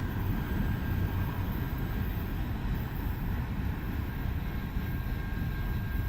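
Freight train cars rolling past on the track: a steady low rumble with a faint high ringing tone above it.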